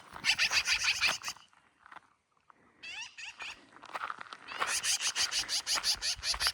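Birds calling in rapid chattering runs of quick repeated notes, one run at the start and a longer one in the second half, with a brief quiet gap between.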